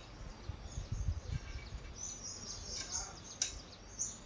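Small birds chirping, with low knocks and rustling about a second in and a sharp click a little after three seconds in.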